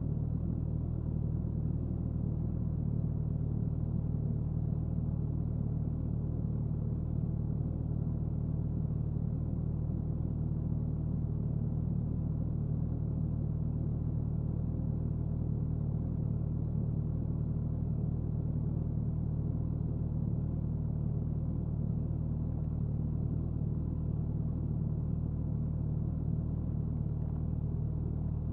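Suzuki Hayabusa inline-four engine and exhaust, heard from near the tail, running at a steady speed while cruising on the highway. The low, even exhaust note holds one pitch throughout, with no gear changes or revving.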